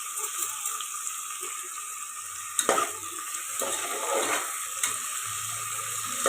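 Onions and tomatoes sizzling steadily in hot oil in a pressure cooker while being stirred, with a few scrapes and knocks against the pot, about two and a half seconds in, near five seconds and at the end.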